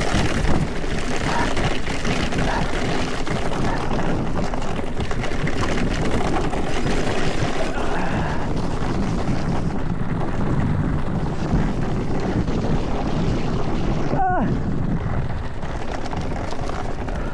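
Hardtail mountain bike descending a rough trail at speed: tyres rumbling and skittering over loose dirt and stones, the bike rattling, wind rushing over the microphone. A brief pitched squeal about fourteen seconds in.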